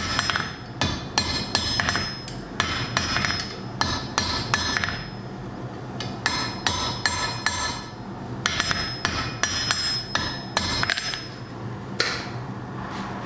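Hand hammer striking a hot flat iron bar on an anvil in quick runs of ringing blows, with brief pauses about halfway and near the end. A steady low hum runs underneath.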